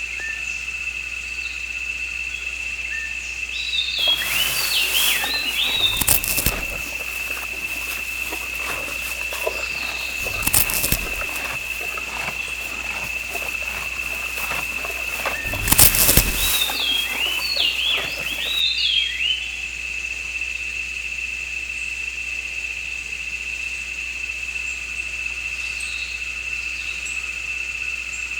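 Forest ambience: a steady high insect drone with short bird chirps coming in several clusters. From about four seconds in until about eighteen seconds, a crackling patter runs underneath, with three louder thumps.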